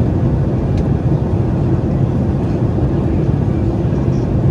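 Steady low drone of a Boeing 737 MAX 8 airliner's engines and airflow, even in level with no rise or fall.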